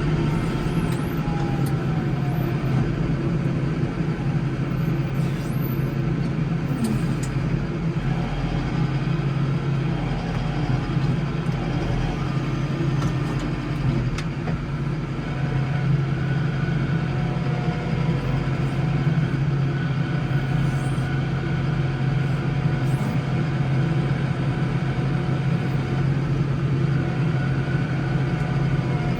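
Case 115U garden tractor engine running steadily under load while plowing snow.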